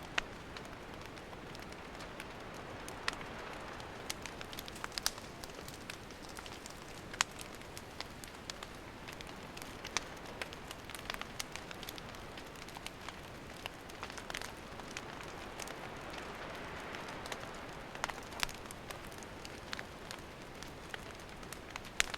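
Wood campfire burning: a steady soft hiss broken by frequent sharp crackles and pops from the burning wood.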